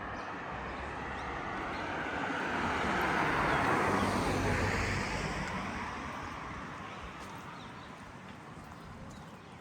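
A car driving past on the street, its noise swelling to a peak about four seconds in and then fading away.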